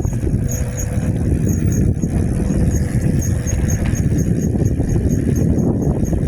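Wind buffeting the microphone and tyre rumble while riding an e-bike, a loud, steady low rumble with a faint, regular high ticking, about four or five ticks a second.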